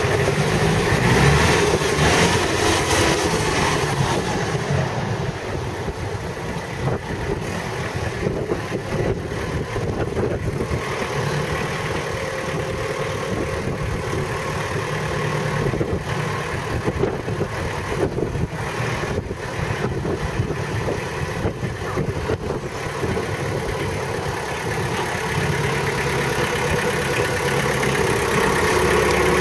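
The engine of a 36 hp Long Landtrac compact tractor idling steadily.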